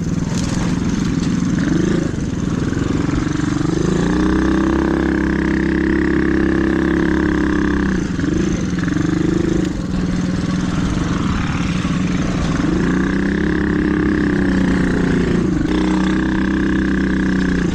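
Mini dirt bike engine pulling under throttle while riding. The revs climb and hold, ease off briefly a few times, then climb again.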